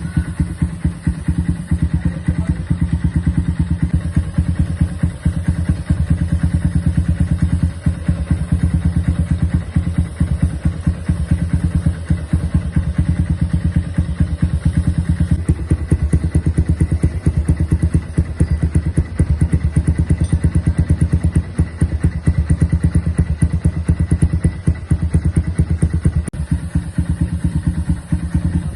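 Kawasaki W175's single-cylinder four-stroke engine idling steadily through a custom scrambler exhaust, a rapid even beat of deep exhaust pulses.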